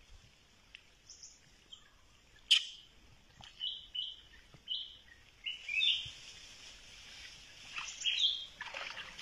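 Birds chirping: short, high calls repeated every second or so. A sharp click about two and a half seconds in is the loudest sound.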